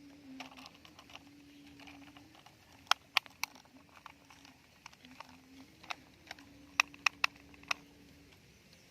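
Sharp clicks and taps of hard plastic toys being handled and knocked together, in two clusters about three and seven seconds in, over a faint low hum that stops near the end.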